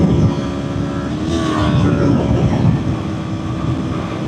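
Kawasaki Ninja 400's parallel-twin engine running at a steady highway cruise, a steady drone under heavy wind rush on the helmet microphone.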